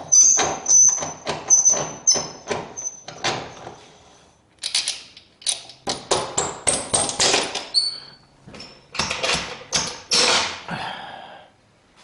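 Hard objects being handled: a rapid series of clinks, taps and scrapes, many followed by a short high ring, with a pause about four seconds in.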